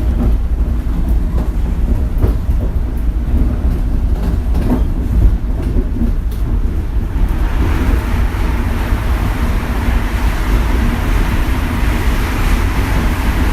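Shonan Monorail suspended monorail car running, heard from inside the cabin: a heavy low rumble with scattered knocks, then a louder rushing hiss builds from about seven seconds in and holds.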